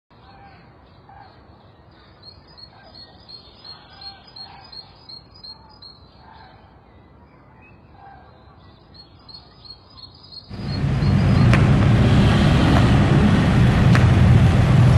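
Birds chirping outdoors, high short notes repeating about four times a second, with a few lower calls between them over a quiet background. About ten seconds in, a much louder steady outdoor rush with a low rumble takes over.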